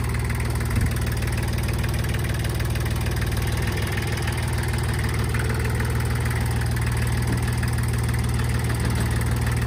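Tractor engine idling steadily, with a single short knock about a second in.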